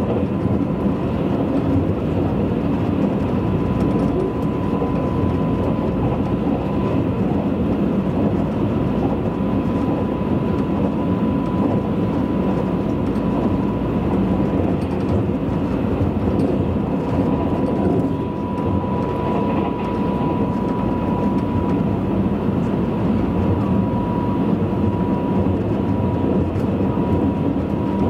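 Running noise inside a Tobu 100 series Spacia limited-express electric train at speed: a steady rumble of wheels on rail, with a thin steady whine above it.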